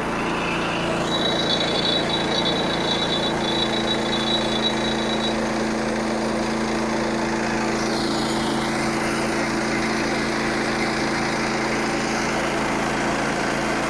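Portable band sawmill running steadily under its engine, the blade cutting through a knotty pine log. About a second in, a thin high whine comes in and holds for about four seconds.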